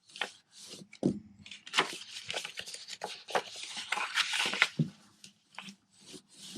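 Patterned designer paper being handled: irregular rustles and slides of the paper, with a few light taps against the work surface.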